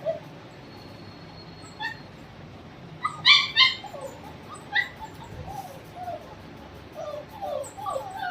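Puppies whimpering and yipping: a few short sharp yelps in the first half, then a run of short falling whines that grows busier near the end.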